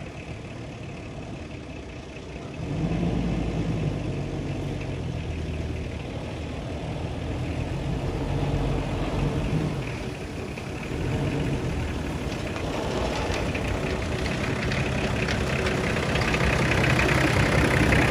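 Engine of a Nissan Patrol SUV running at low revs, with a steady low hum that steps up in loudness about three seconds in and again near the end.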